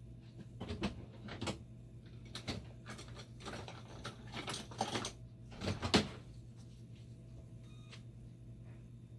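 Handling and rummaging noises: a string of irregular clicks, knocks and short rustles, the loudest a knock about six seconds in, over a steady low hum.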